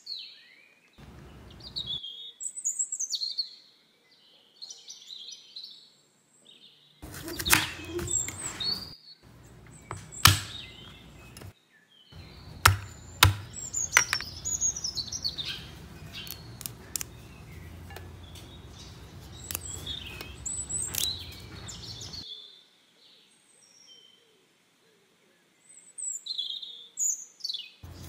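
Small birds chirping and calling repeatedly, with a knife striking a plastic cutting board in a few sharp clicks as ginger is cut. A low steady hum runs under the middle stretch, and the sound drops out abruptly several times.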